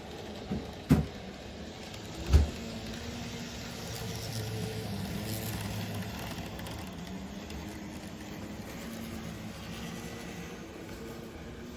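TOMIX KiHa 120 N-gauge model railcar running on layout track: a steady motor whir and rolling wheel noise that swells a little in the middle. Two sharp knocks stand out, about one second and two and a half seconds in.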